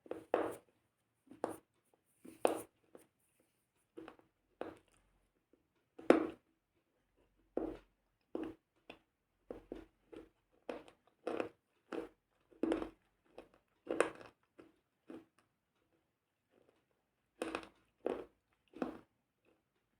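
A series of short, crisp crunching noises, one every half second to a second, each separate with silence between, loudest about six seconds in, with a gap in the middle of the second half.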